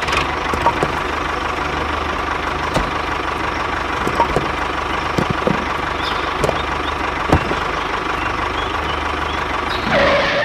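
Homemade mini tractor's motor running steadily under load, a continuous mechanical drone with a steady whine and a few light knocks and clicks.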